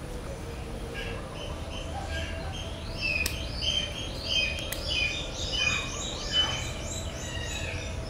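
Small birds chirping in quick runs of short, high, falling notes, getting busier from about three seconds in, with two sharp clicks partway through.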